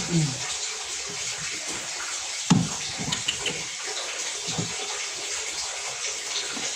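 Water running steadily, as from a tap, with a few short knocks of handling, the loudest about two and a half seconds in.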